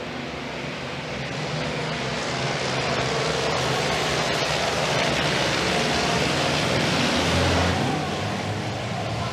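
Several racing trucks' diesel engines running hard as a pack of trucks goes by, the sound building to a peak about three-quarters of the way through and then easing off.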